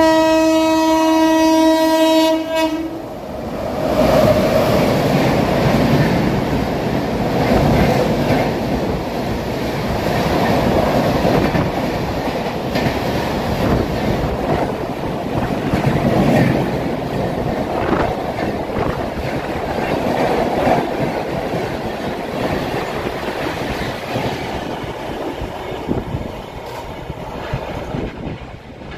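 A train horn sounds steadily for about three seconds. Then an Indian Railways passenger train runs past close by, with a continuous rumble and repeated clatter of wheels over the rail joints.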